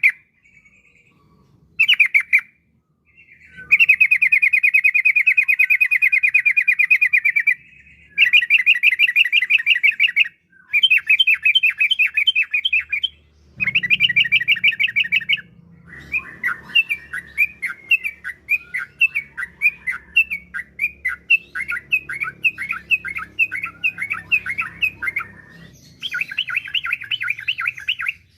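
Yellow-vented bulbul (trucukan) singing in long phrases of rapid, chattering repeated notes, separated by short pauses.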